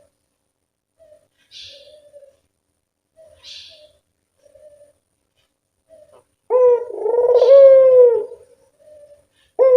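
Puter doves calling: soft, low coos and faint higher chirps, then about six and a half seconds in a loud, drawn-out call that bends in pitch.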